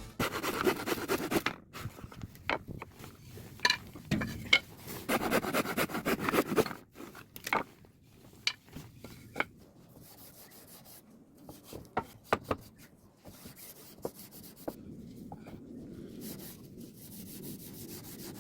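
Wood being rubbed and scraped by hand in irregular bouts, with scattered light knocks and clicks.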